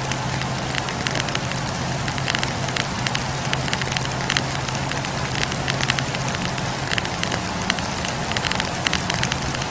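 Wood campfire burning, its logs crackling and popping in quick irregular snaps over a steady hiss of flame, with a low steady rumble underneath.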